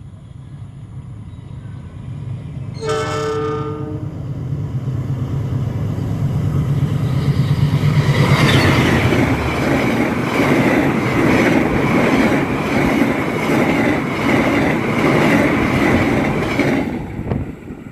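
Argo Sindoro express passenger train approaching at speed and sounding one horn blast of about a second, then rushing past loudly with a rhythmic clickety-clack of wheels over the rail joints. The noise cuts off suddenly near the end as the last car goes by.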